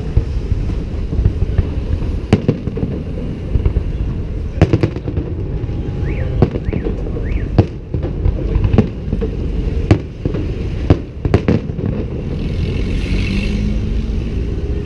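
Fireworks salute: a dozen or so sharp bangs of bursting shells at irregular intervals over a steady low rumble.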